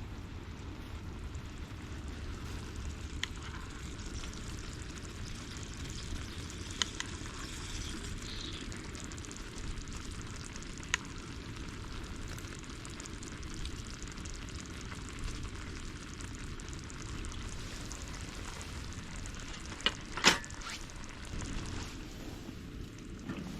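Food sizzling in a pan: a steady hiss over a low, even rumble, with a few sharp clicks and one loud knock about twenty seconds in.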